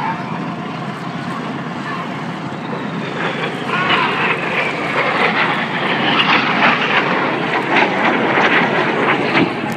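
BAE Systems Hawk T1 jets of the Red Arrows synchro pair flying a low, fast pass: Adour turbofan jet noise that grows louder about three seconds in, with a whine falling in pitch as they come through.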